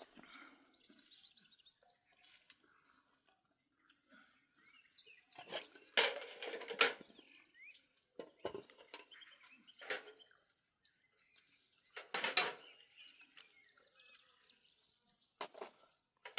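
Small birds chirping and twittering in short, scattered calls, broken by a few louder, brief sounds about six, ten and twelve seconds in.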